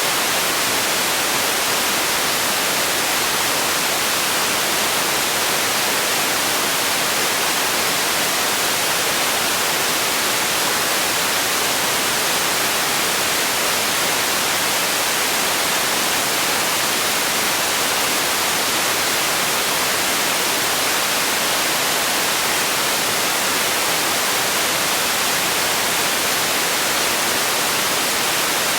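Steady white noise for sleep: an even hiss, brightest in the treble, with no change in level or pitch.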